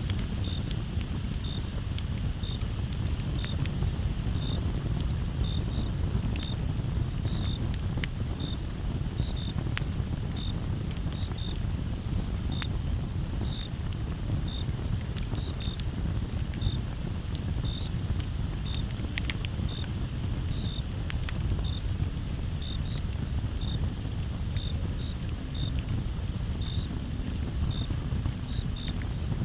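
Campfire crackling, with frequent sharp pops of burning wood over a low rumble, and crickets chirping in a regular rhythm of about one or two chirps a second above a steady high insect hum.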